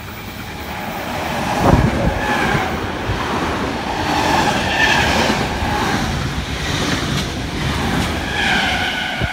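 NSW TrainLink V set double-deck electric intercity train running through the station at speed without stopping. Its running noise builds as the front arrives and is loudest about two seconds in, then holds as a steady rush of wheels on rail while the carriages pass.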